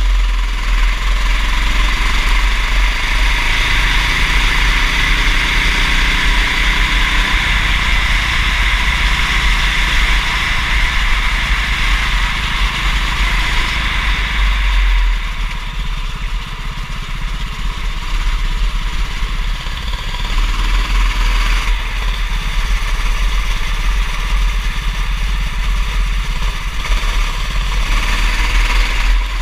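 Kart engine running at racing speed, its pitch rising and falling with the throttle and dropping off for a few seconds about halfway through before picking up again, over a constant low rumble and a hiss of wind and wet track.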